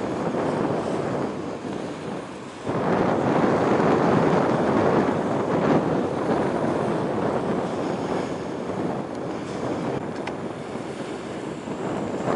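Rushing wind over the microphone mixed with waves washing in, surging louder about three seconds in.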